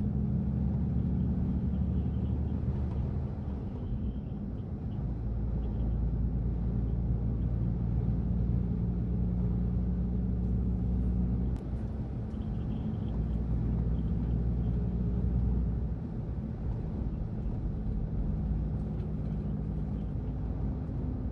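A large engine running steadily, a low drone with a steady hum, its level dipping slightly a couple of times.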